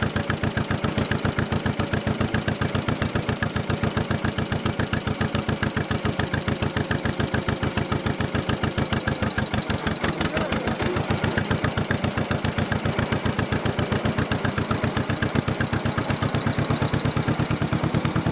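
John Deere 40S two-cylinder tractor engine running at a steady pace: an even train of firing pulses, easing slightly about halfway through and then picking up again.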